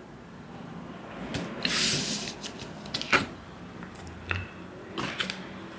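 Tarot cards being handled on a table: a brief rustling slide about two seconds in, then several sharp clicks and taps, the loudest about three seconds in.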